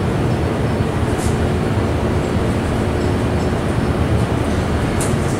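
Dover traction elevator car travelling in a deep shaft: a steady low rumble with a faint constant hum, running smoothly.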